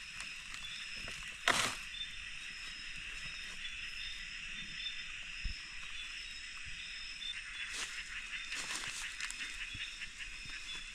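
Steady chorus of rainforest insects and frogs, several unchanging high tones layered together, with one sharp rustling knock about a second and a half in and more brief rustles near the end.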